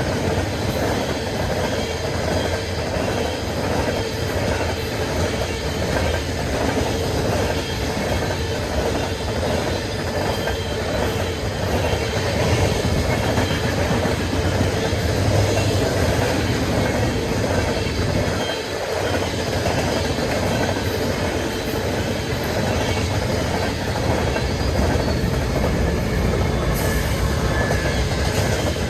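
A train rolling past at close range, with a steady rumble and clatter of wheels on the rails that holds throughout.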